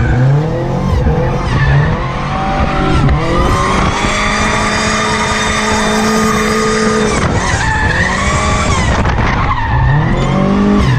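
Drift car engine at high revs, the pitch swinging up and down, held high for a few seconds in the middle, dropping, then climbing again near the end, with tyres squealing as the car slides.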